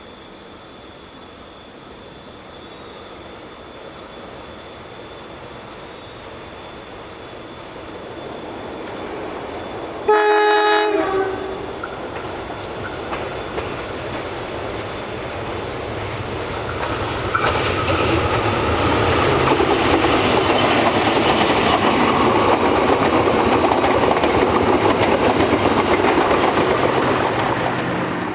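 A train approaching, growing steadily louder, sounds one short horn blast about ten seconds in. From around seventeen seconds it passes close by, loud, its wheels clattering steadily over the rail joints.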